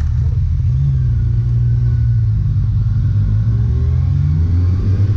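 Motorcycle engine running with a heavy low rumble, its pitch rising as it revs up a little after three seconds in.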